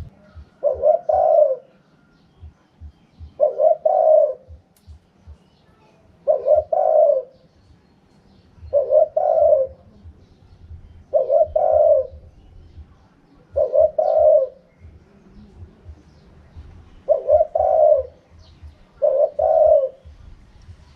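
Wild spotted dove cooing in its natural call pattern, repeating the same phrase about every two to three seconds. Each phrase is a couple of quick notes running into a longer coo.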